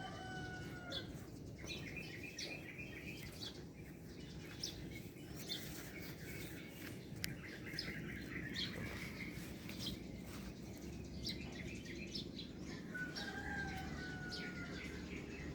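Small birds chirping outdoors, with short quick trills repeating every few seconds over a steady low background rumble. A longer, slightly falling call comes near the start and again near the end.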